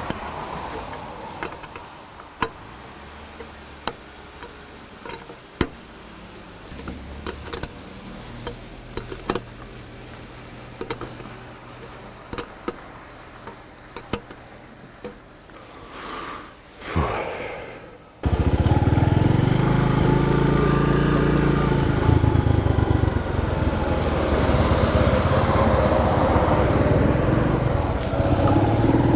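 Scattered light clicks and knocks, then about eighteen seconds in the loud sound of a Bajaj Boxer 150's single-cylinder four-stroke engine comes in abruptly and keeps running, its pitch rising and falling with the throttle.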